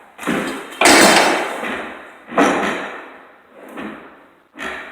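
A series of about five heavy bangs, each dying away briefly; the loudest comes about a second in. It sounds like someone hitting or kicking part of an unfinished building's structure.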